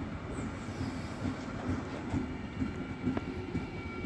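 Belgian NMBS M6 double-deck passenger train running past along the platform: a dense rumble of wheels and running gear with uneven swells and a click. A faint steady high-pitched squeal joins about three seconds in.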